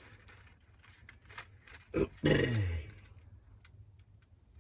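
A man's short grunt about two seconds in, falling in pitch, just after a sharp click; otherwise faint small clicks of handling.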